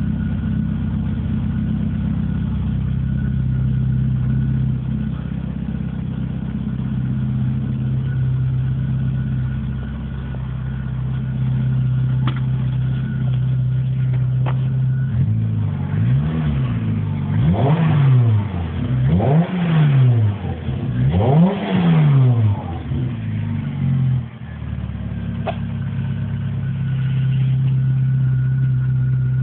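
Citroën Saxo VTR four-cylinder petrol engine idling through its cat-back exhaust. About halfway through it is revved three times, each rev rising and falling, and then it settles back to a steady idle.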